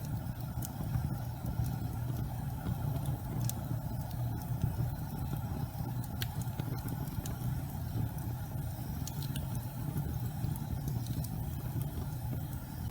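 Gas fireplace flames burning with a steady low rumble, with faint scattered crackles and ticks.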